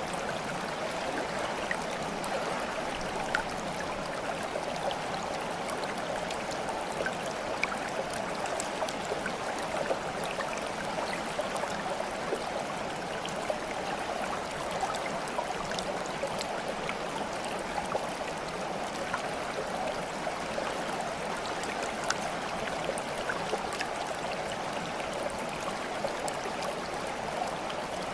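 Steady babbling of a running stream, with scattered small drips and splashes.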